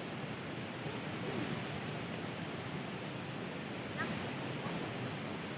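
Steady rain falling, an even hiss without pause.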